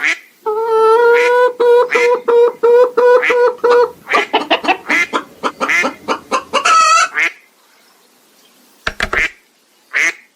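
Duck-like bird calls: a loud, fast run of repeated pitched calls for about seven seconds, then a pause and a few short calls near the end.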